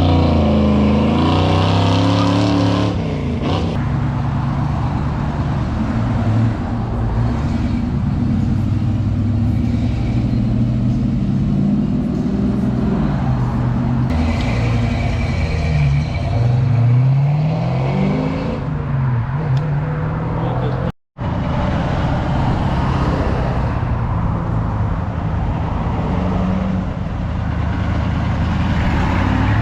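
Car engines revving and accelerating hard past the listener one after another, the engine pitch rising and falling with each pass. The sound cuts out briefly about two-thirds of the way through.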